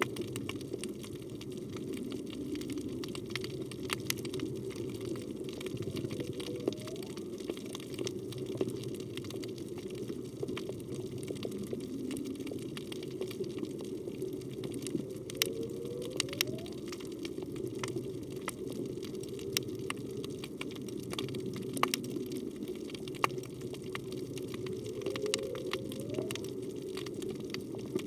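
Humpback whale song heard underwater: three short rising calls about ten seconds apart over a steady rush of water and scattered sharp clicks.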